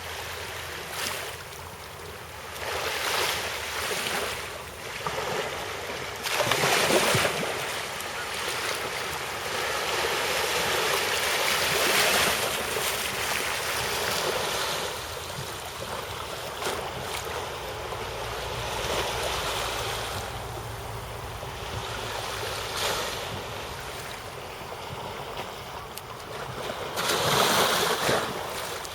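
Sea waves washing in, a rushing noise that swells and falls back every few seconds, loudest about seven seconds in and again near the end.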